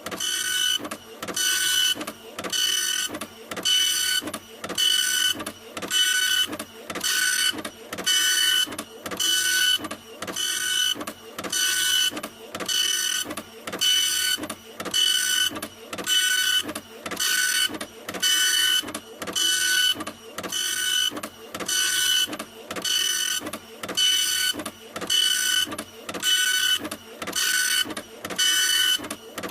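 Printer running continuously, its print head moving in even passes about once a second, each pass a whirring whine over mechanical hiss.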